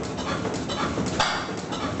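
Vintage single-cylinder stationary engine running slowly, its exhaust firing in sharp beats about twice a second.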